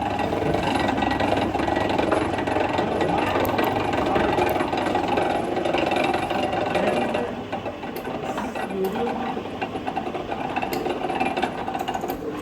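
A workshop machine running steadily, with a dense mechanical noise that becomes noticeably quieter a little past halfway.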